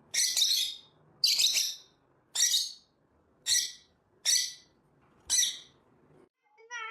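A parrot squawking: six harsh, shrill calls about a second apart.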